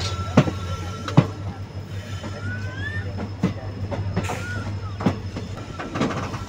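Passenger train rolling slowly over the track, with a steady low rumble and its wheels knocking sharply over rail joints at irregular intervals. Two short squeals come around the middle.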